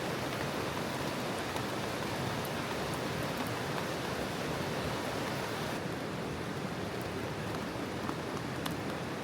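Steady rush of a mountain stream mixed with falling rain, with a few scattered drops ticking on a surface.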